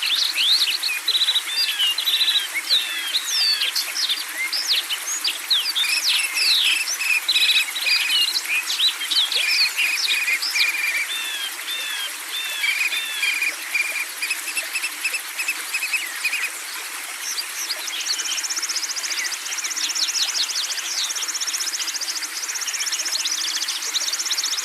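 Several songbirds singing and calling over one another: quick whistled slurs, repeated chirps and fast trills. Near the end a high, rapid buzzing trill joins in.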